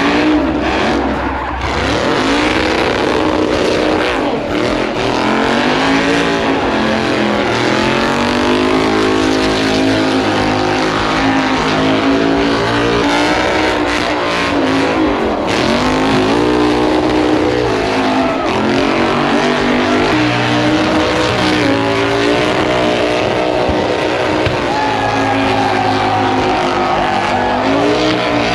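A car doing a burnout, its engine held at high revs that keep rising and falling, with the tyres spinning against the pavement.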